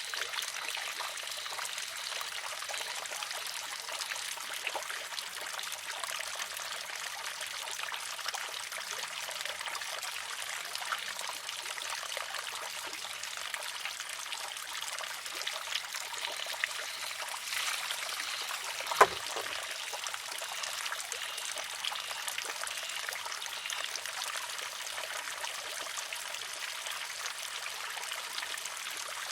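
Water trickling steadily into a wooden shishi-odoshi. About two-thirds of the way through, the filled arm tips and strikes its rock once with a single sharp clack.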